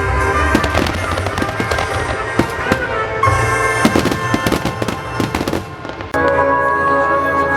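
Fireworks bursting and crackling over loud pyromusical accompaniment. The music thins out briefly and comes back in strongly about six seconds in, with bangs going off throughout.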